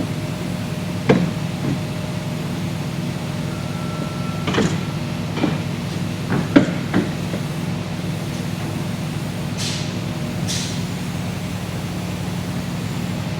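Steady low hum of an idling truck engine, with about six sharp metal knocks and clanks from tire-change work in the first half and two short hisses of air about ten seconds in.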